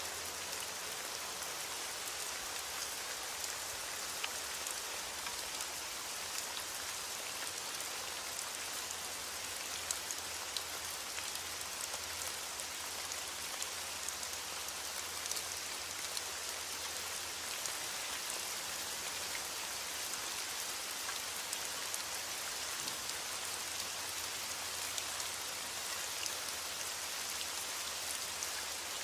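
Heavy rain on a window glass, a steady even hiss, with scattered small sharp crackles from a wood fire.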